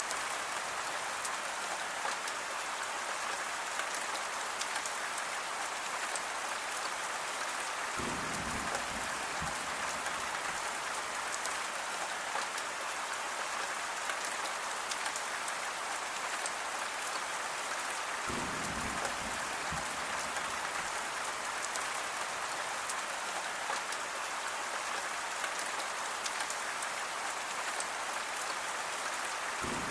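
Steady rain falling, an even hiss of many drops. A brief deeper swell comes in about every ten seconds.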